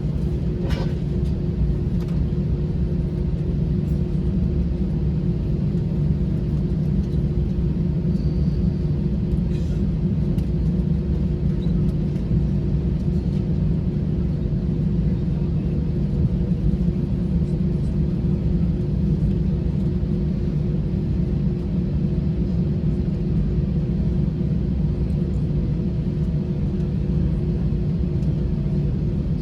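Steady low rumble with a constant hum inside an Airbus A321 cabin on the ground, unchanging throughout.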